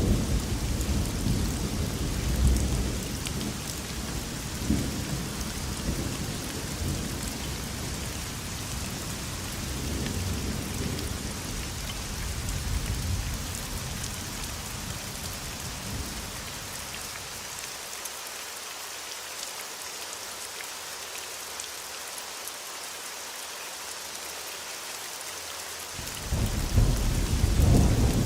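Steady rain hissing throughout, with thunder rumbling in the first half. The rumble dies away about two-thirds of the way in, leaving the rain alone, and then a loud new roll of thunder starts near the end.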